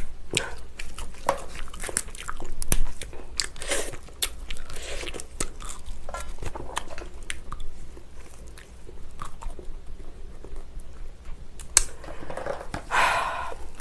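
Close-miked eating of lobster: chewing and biting, with many sharp wet clicks and a few short louder smacks.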